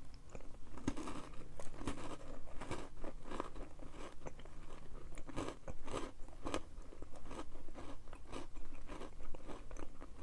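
Close-miked chewing of crunchy granola: repeated crisp crunches, a few a second, from the mouth.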